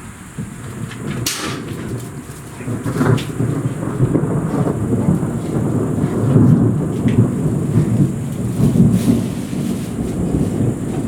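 Rolling thunder, a long low rumble that builds over the first few seconds and stays loud, over the steady hiss of heavy rain. A few sharp clicks come in the first three seconds.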